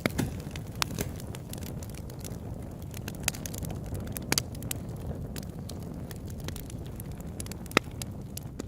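Campfire crackling: wood popping and snapping in irregular sharp cracks over a low steady rumble, with one loud pop near the end.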